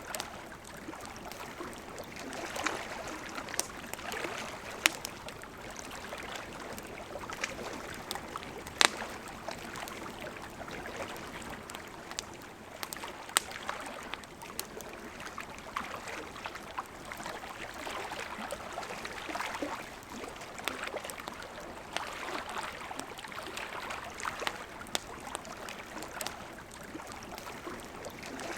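River water flowing steadily with gentle swells, and a wood campfire crackling, with frequent sharp pops; a few louder snaps come about 5, 9 and 13 seconds in.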